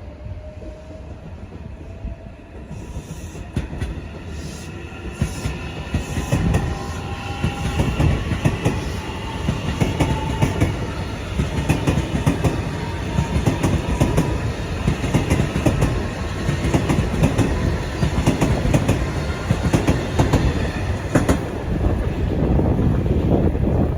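Electric train passing close by, its wheels clattering rhythmically over the rail joints. It builds up over the first few seconds, with a tone rising in pitch, and stays loud as the cars go by.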